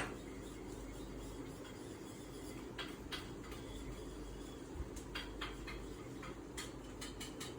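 Faint steady room hum with a few scattered light clicks and taps.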